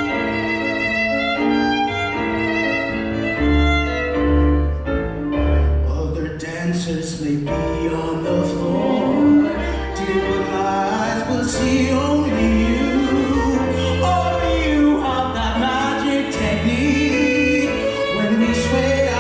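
Live music of violin with piano accompaniment; about six seconds in, a singer joins in over the instruments.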